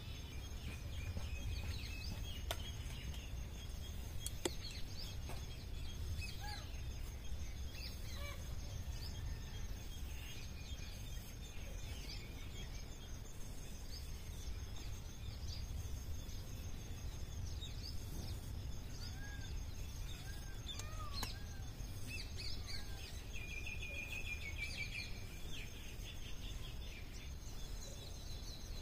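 Outdoor ambience of birds chirping and calling, many short scattered chirps with a brief rapid trill about two-thirds of the way through, over a steady low background rumble.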